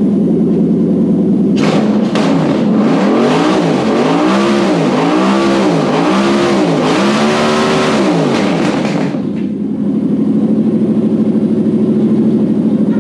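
Toyota UZ-series V8 running on an engine stand: it idles steadily, is revved in a string of about five quick blips roughly one a second, then drops back to a steady idle for the last few seconds.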